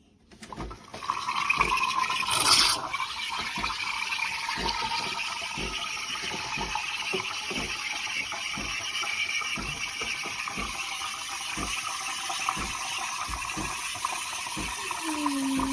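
A De'Longhi Dedica pump espresso machine running with a steady rushing, water-like hiss and a regular low thump about twice a second. A brief louder burst comes about two and a half seconds in.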